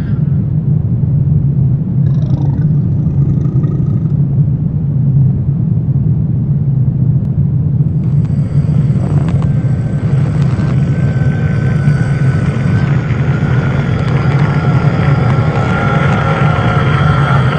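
Dark horror ambience: a deep, steady rumbling drone, joined about eight seconds in by a hissing upper layer with thin high tones.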